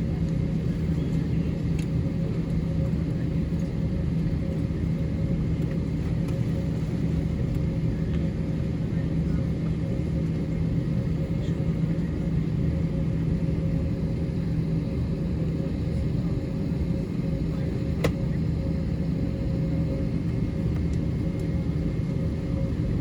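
Steady cabin rumble inside an Airbus A321 on the ground, with a constant low hum and a fainter higher tone over it. A single sharp click comes about eighteen seconds in.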